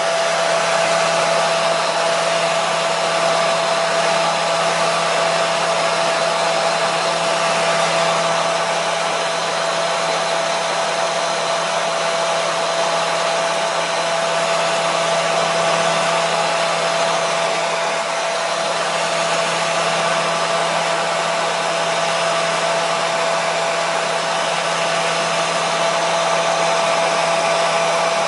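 Electric hair dryer running steadily: a continuous rushing blow of air with a steady motor hum and whine.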